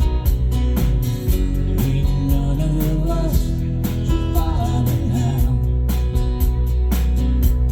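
Country-rock band playing an instrumental break: guitars and bass over drums keeping a steady beat, with a melodic lead line weaving above in the middle of the passage.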